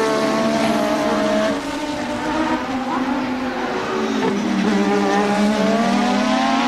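Formula One racing car engine at high revs. The pitch drops over a couple of seconds as the car slows, then climbs steadily as it accelerates again.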